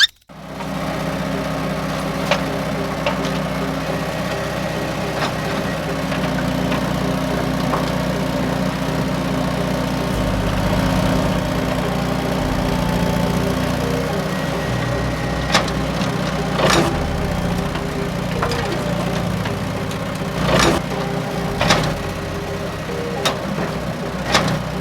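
A small motor running steadily with a low hum, with scattered sharp clicks and knocks in the second half.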